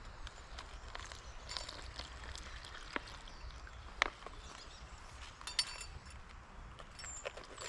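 Cold water being poured by eye into a dehydrated-meal pouch, with light rustling of the pouch and a few sharp clicks.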